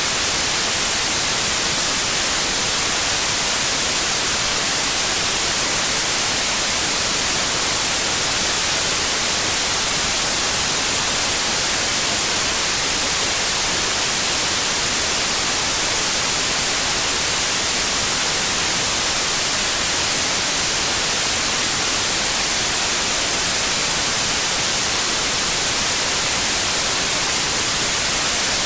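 Steady, continuous white noise: an even hiss, strongest in the treble, with no changes in level.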